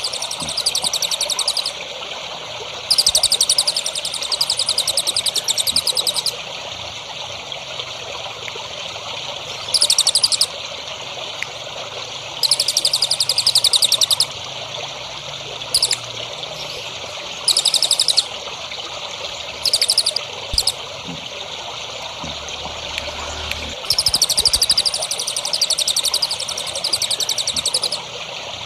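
A small songbird repeating high, very fast trills in bursts from under a second to about three seconds long, with short gaps between, over a steady trickle of running water.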